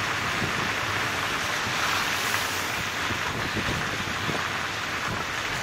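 Vehicle driving through a flooded road: a steady rush of water sloshing and spraying around it, with a low, uneven rumble underneath.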